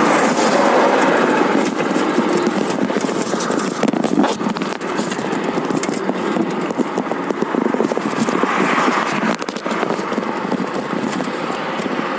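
Road traffic passing along a busy road, heard from a moving bicycle, with many small clicks and rattles throughout.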